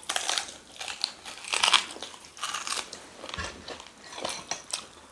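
Close-up eating sounds: biting and chewing a mouthful of food, with irregular wet clicks and crunches several times a second.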